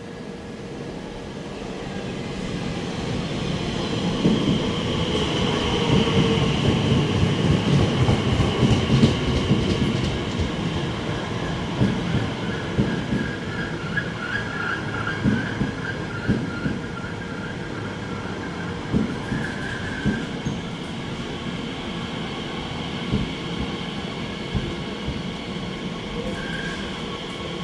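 A train running along the tracks at a station. Its rumble swells over the first several seconds, then the wheels clack sharply over rail joints and give a wavering squeal around the middle.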